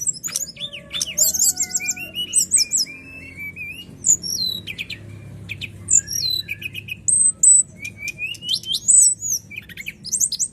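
Brown-chested jungle flycatcher singing a fast, varied song of clear whistles, trills and rising and falling slurs, over a faint steady low hum.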